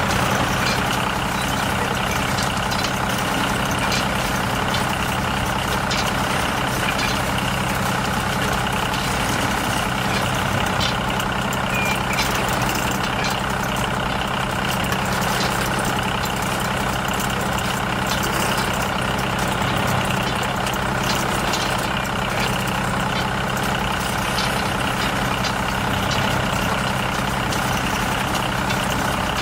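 Heavy vehicle engine idling steadily, a low, even engine note that holds without change.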